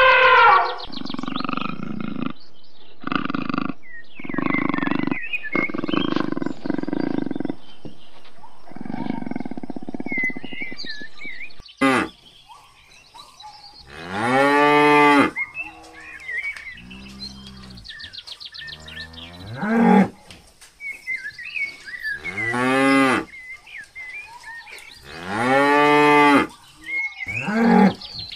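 African (Cape) buffalo lowing: about five or six drawn-out moo-like calls in the second half, each rising then falling in pitch, with birds chirping faintly between them. Before that, a rough low sound comes and goes in several stretches.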